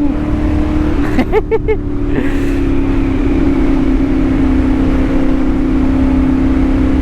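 CFMOTO 450SS motorcycle with an aftermarket slip-on exhaust, its engine running at a steady speed under a rush of wind noise, with a few short blips about a second in.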